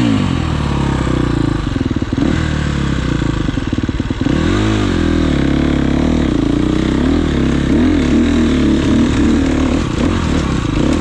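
GasGas EX350 four-stroke single-cylinder dirt bike engine running steadily, then revving up and down several times from about four seconds in.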